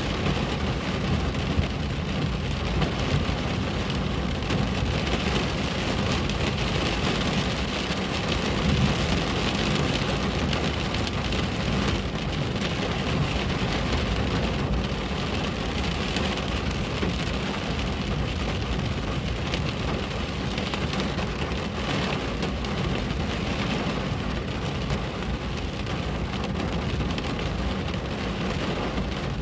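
Steady rain falling on a window, an even hiss of drops over a constant low rumble.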